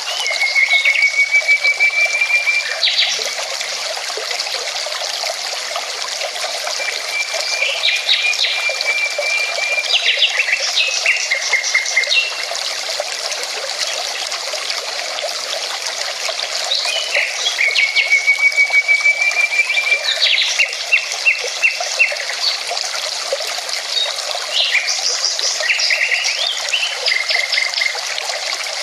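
Steady rushing of a mountain river, with a songbird singing over it. The bird repeats a phrase about every eight to ten seconds: a level trill followed by a jumble of quick, higher notes.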